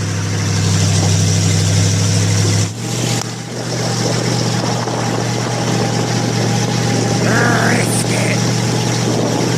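Monster truck engine running steadily with a deep drone heard from on board; its note shifts about three seconds in and then holds.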